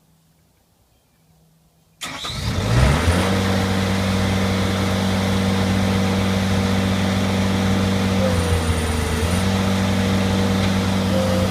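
Bobcat skid-steer loader's engine starting: it catches suddenly about two seconds in, rises quickly in pitch and settles into a steady run. A few seconds later the engine note briefly sags and recovers.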